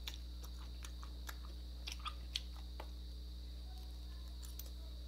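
Close-up eating sounds: chewing and biting, with scattered small clicks of a metal spoon against a glass bowl, over a steady low electrical hum.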